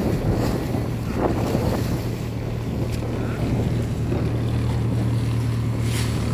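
A passenger motor boat's engine running at a steady drone, with wind buffeting the microphone and waves splashing against the hull in rough water.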